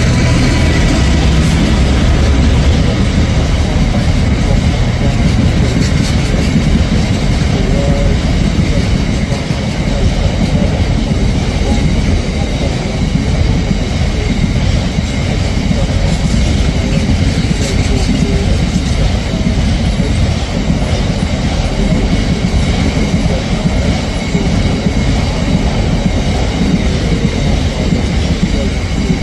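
Train moving along the track, with a steady heavy rumble and wheels clattering over the rails. A low engine hum is heard in the first couple of seconds.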